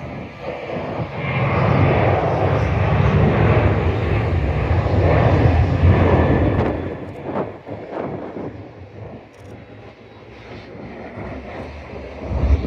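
Skymark jet airliner's engines at takeoff thrust, a loud roar that fades from about six and a half seconds in as the aircraft draws away.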